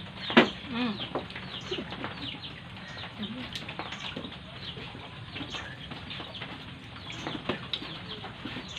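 Birds chirping over and over in short, high, falling notes, with one sudden loud click about half a second in.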